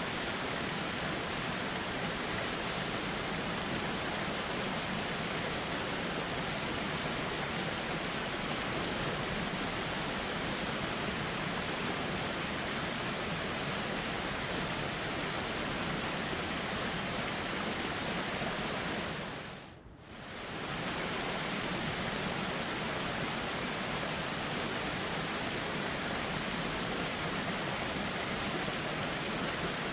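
Steady rushing of a flowing river. It fades out briefly and back in about two-thirds of the way through, like the seam of a looped recording.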